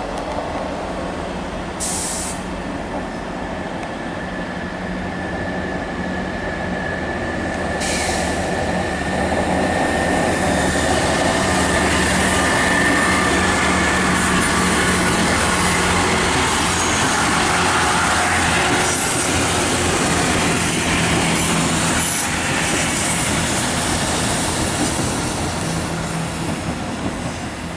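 GWR diesel multiple-unit passenger trains moving through the station, engines running with a steady low drone. The sound swells as a train passes close, loudest about halfway through, with a thin high whine over it for several seconds.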